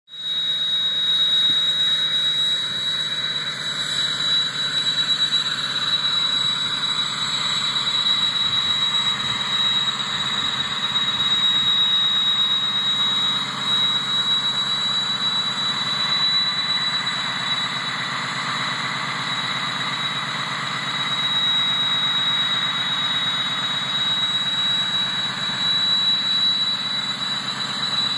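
Engine running steadily at high idle with a big upgraded turbocharger, its turbo giving a steady high-pitched whistle over the engine's running.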